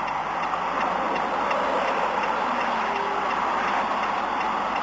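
Steady rushing road and engine noise of a moving vehicle.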